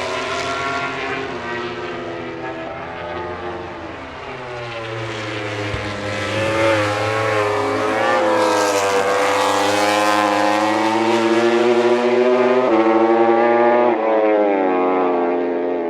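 MotoGP prototype race motorcycle engine running hard on track, its pitch sinking then climbing again, with abrupt gear changes near the end.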